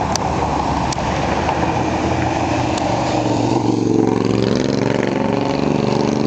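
Ford 5.0 small-block V8, stroked to 306, running at low revs through a fully open exhaust. Its pitched note steadies and becomes clearer about three and a half seconds in.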